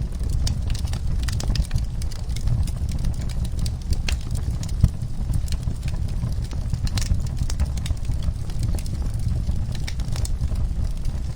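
Wood fire in a fireplace crackling: frequent irregular sharp pops and snaps over a steady low rumble of the flames, with one louder pop about five seconds in.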